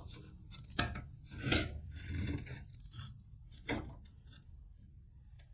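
Wooden boards being handled: a few light knocks and a brief scraping rub of wood.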